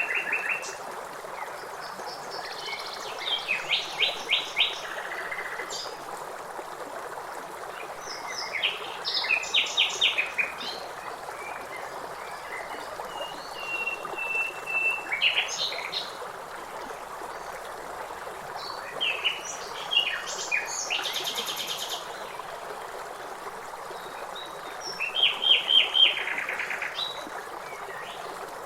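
Several songbirds singing in bursts of quick chirps and trills over the steady rush of flowing river water. One bird gives a single held whistle about halfway through.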